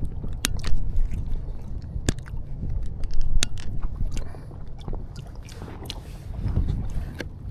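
A person chewing food close to the microphone: irregular wet mouth clicks and squishes over a steady low rumble.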